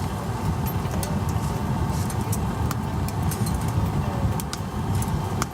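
Firewood crackling in a small box-type wood stove, with scattered sharp pops over a steady low rumble.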